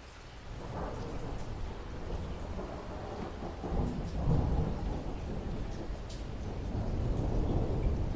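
Thunder rumbling over rain. The deep rumble swells in about half a second in, is loudest near the middle, and rolls on to the end.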